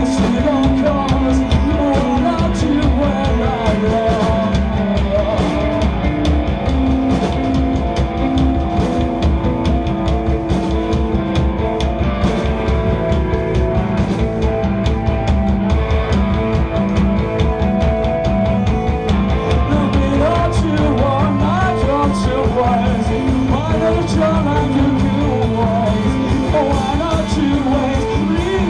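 Live rock band jamming: drums, bass and electric guitars playing a repeating riff, with a steady beat of drum hits.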